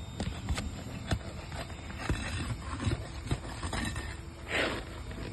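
Scattered knocks and clicks of hand work on asphalt roof shingles while a damaged shingle is worked loose, with a short scraping rustle a little before the end.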